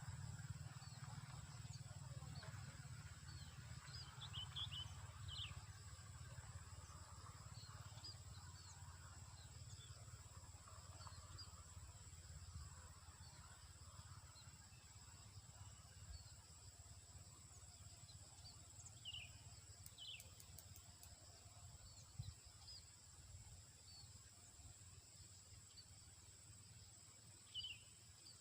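Faint rural outdoor ambience: scattered short, high bird chirps coming in a few small clusters, over a steady high-pitched hum and a low rumble that fades away.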